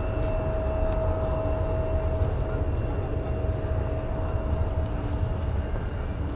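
Jet airliner engines running: a steady low rumble with a held whine that fades near the end.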